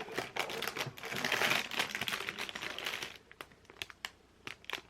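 Crinkling and rustling of something being handled, such as packaging, for about three seconds, then a few light clicks and taps.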